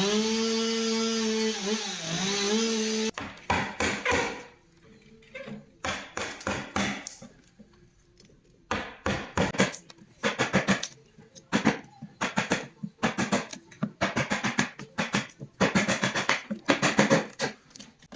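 A small power tool running, its pitch dipping briefly under load, then a long run of irregular sharp strokes and scrapes with short pauses between them, like work on a piece.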